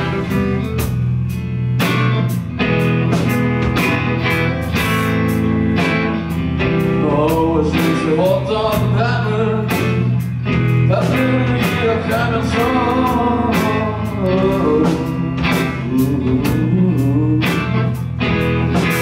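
Rock band playing live: drums keeping a steady beat under bass and electric guitars, with a bending, wavering lead line over the top from about seven seconds in.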